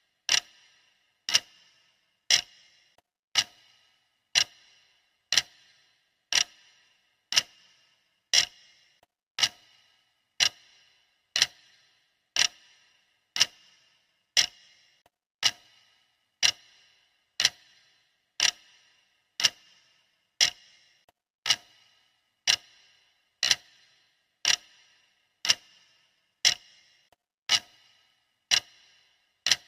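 Clock ticking sound effect counting down a timer: one sharp tick each second, evenly spaced, each with a short ringing tail.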